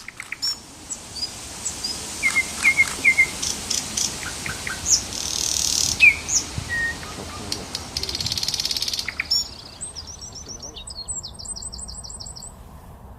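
Birds calling: many short, sharp high chirps, with two buzzy stretches, then a fast trill of repeated high notes near the end.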